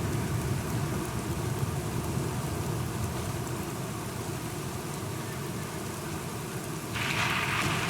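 Steady rain with a low rumble underneath that slowly eases; about seven seconds in, the hiss of the rain suddenly gets louder.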